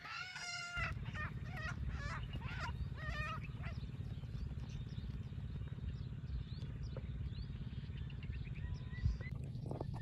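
A bird calling about six times in quick succession during the first three or so seconds, with fainter short chirps later. A steady low rumble runs underneath.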